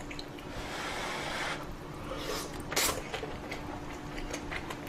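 A person eating ramen and kimchi close to the microphone: a drawn-out hissing slurp through the first second and a half, then a sharp smack about three seconds in. A faint steady hum runs underneath.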